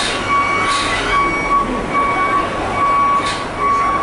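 A reversing alarm beeping steadily, about once every three-quarters of a second, over a constant wash of harbour machinery and traffic noise.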